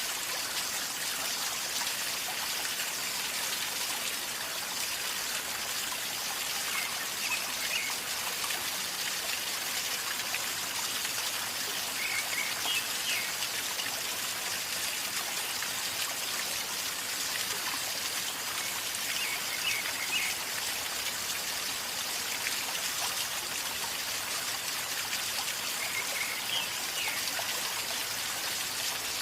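A river flowing calmly, with a steady gurgling rush of water. A bird chirps in short bursts a few times, roughly every six or seven seconds.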